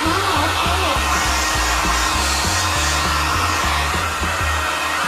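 Silvercrest hand-held hair dryer running steadily with its diffuser attachment fitted, a continuous airy whoosh.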